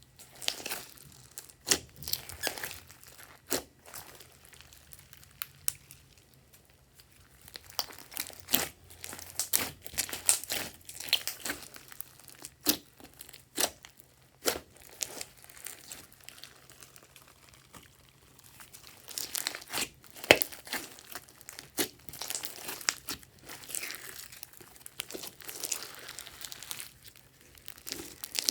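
Glossy slime being mixed and stretched by hand, giving irregular sharp clicks and crackles, with a couple of quieter stretches between.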